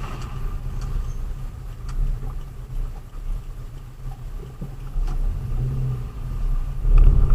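Low, steady rumble of a delivery vehicle driving along the road, engine and road noise together, swelling louder near the end.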